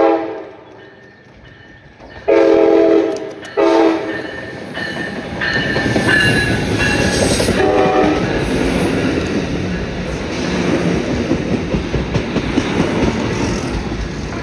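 A passing train sounding its multi-note horn: a blast about two seconds in, a short one just after and another around eight seconds in. Under the horn the rumble and clickety-clack of the wheels on the rails builds up and carries on as the train goes by.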